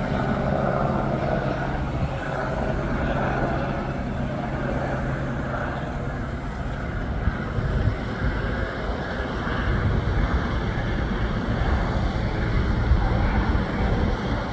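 Helicopter taking off, its steady drone fading out over the first six seconds, with gusts of wind rumbling on the microphone.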